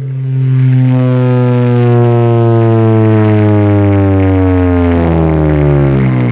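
A Ford F-250's competition car-audio system playing one long, very loud bass tone that slowly falls in pitch, for a sound-pressure contest measurement that read 153.7 decibels.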